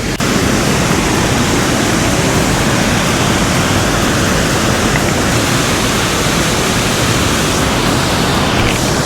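A wide, 12-foot waterfall with a loud, steady rush of falling water.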